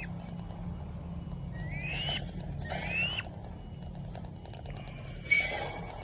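A bird gives short rising whistled calls, three in the first three seconds, over a steady low hum. About five seconds in comes a sharp, noisy sound, the loudest thing here.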